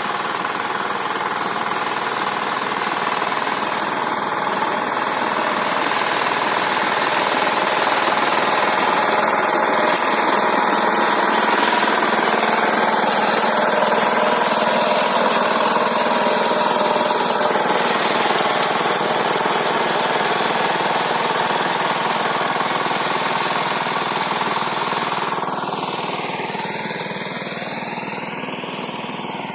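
Walk-behind tractor engine running steadily under load as its rotary tiller churns the soil. It grows a little louder toward the middle and eases off over the last few seconds.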